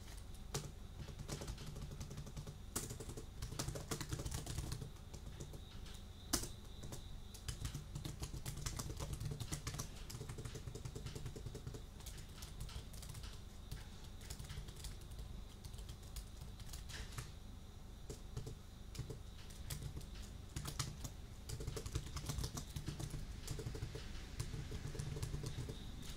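Computer keyboard being typed on continuously, a dense run of key clicks close to a binaural microphone.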